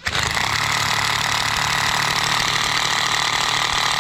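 Power driver sinking a 10x1 hex screw into a wooden railroad tie, starting at the outset and running continuously with a fast, even rattle.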